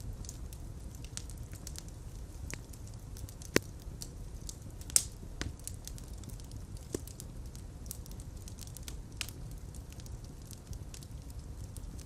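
Wood fire burning with a steady low rumble and scattered crackles, two sharper pops standing out a few seconds in.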